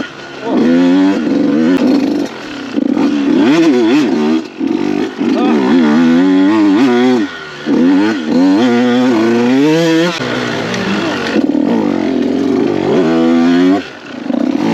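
Motocross dirt bike engine being ridden hard, revving up and down over and over as the throttle is opened and shut, with brief drops every couple of seconds.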